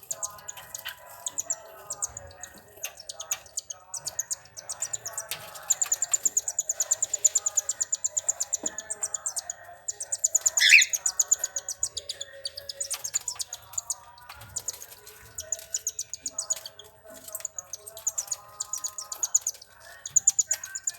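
Caged cockatiels chirping and calling together: a dense run of rapid, high-pitched chirps over busier lower calls, with one loud, sharply rising call about eleven seconds in.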